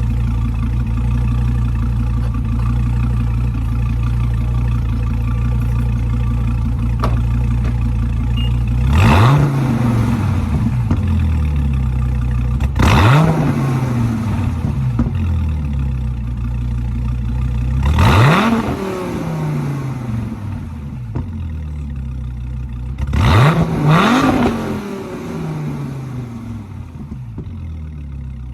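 2016 Dodge Viper ACR's 8.4-litre V10 on its stock exhaust, idling steadily, then revved four times several seconds apart, the last a quick double blip. Each rev climbs sharply and drops back to idle.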